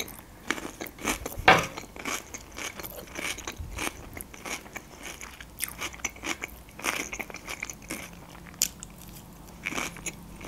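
A person chewing food with the mouth close to the microphone, mukbang-style: irregular wet clicks and smacks, the loudest about a second and a half in.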